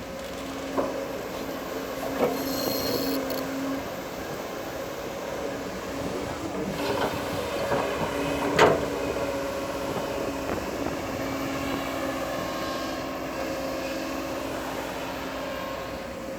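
Bulldozer engine running steadily, with a few sharp metal clanks, the loudest about eight and a half seconds in, and a brief high squeal near the start.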